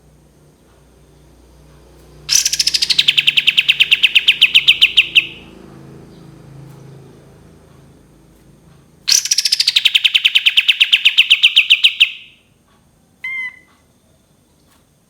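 Kapas tembak songbird singing two long, fast trills about three seconds each, each opening with a downward sweep and then holding a steady high rattle of rapid notes. A short faint chirp follows near the end.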